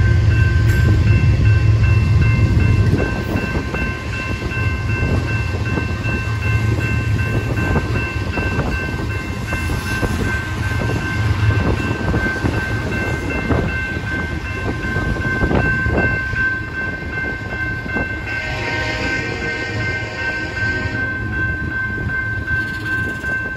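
Freight cars rolling past: steel wheels rumbling and clacking over the rail joints, heaviest in the first few seconds. A railroad crossing warning bell rings steadily throughout, and about 18 seconds in the wheel noise turns harsher for a few seconds.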